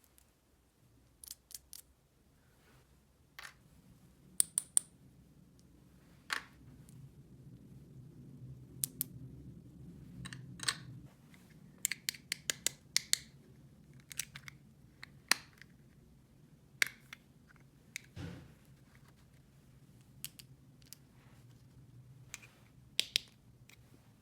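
Small hard objects, most likely plastic toy pieces, being handled and set down: irregular sharp clicks and taps, a few of them loud, over a faint low hum.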